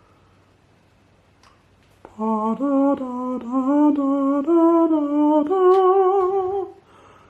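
A person humming a short wordless tune, starting about two seconds in and lasting about five seconds, with held notes that step upward in pitch.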